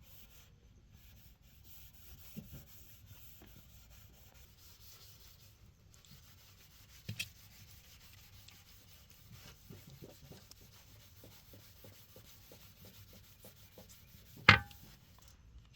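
Faint rubbing with scattered light taps, then one sharp, loud knock near the end.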